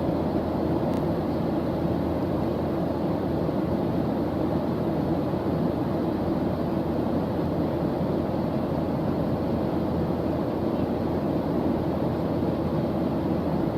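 Steady white-noise background track: an even, unchanging hiss weighted toward the low and middle range.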